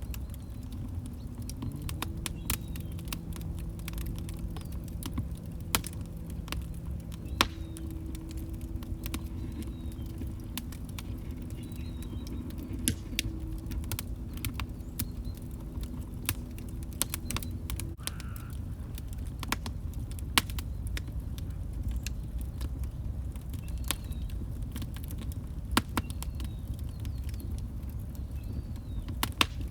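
Log fire crackling, with sharp pops at irregular moments over a low rumble. A faint low steady tone runs underneath for about the first eighteen seconds, then stops.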